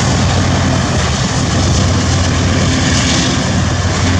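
Freight train rolling past close by: covered hopper cars clattering on the rails over a steady low diesel locomotive drone.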